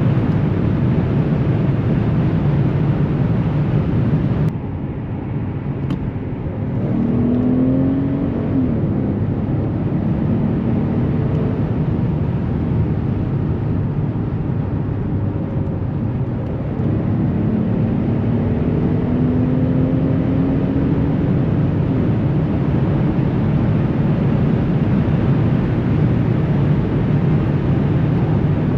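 The Mercedes S65 AMG's 6.0-litre biturbo V12 driving at speed, with steady engine, tyre and wind noise. About four seconds in the sound drops suddenly as the throttle eases. Engine pitch then climbs, and a little past halfway it swells back up under load.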